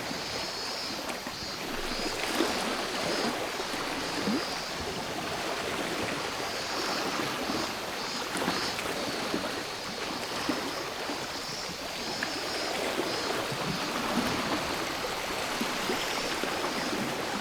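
Small sea waves washing and trickling over the shore in a steady wash with light crackles. Cicadas buzz in a high band that swells and fades every few seconds.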